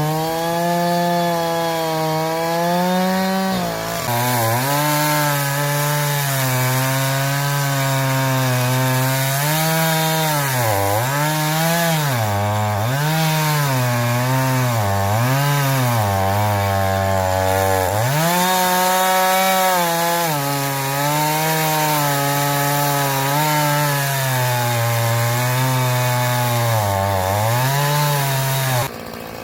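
Chainsaw cutting through oak logs, the engine held at high revs with its pitch sagging and recovering again and again as the chain bites into the wood. The engine eases off near the end.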